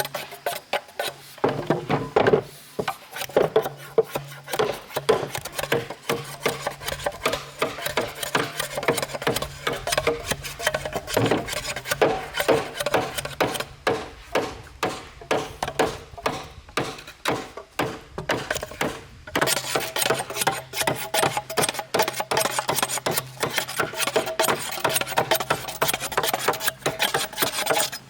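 A hand tool rasping back and forth on bamboo in quick, repeated strokes, with a short break about two-thirds of the way through.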